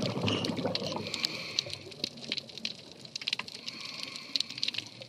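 Underwater sound on a coral reef: bubbling water with many scattered sharp crackling clicks.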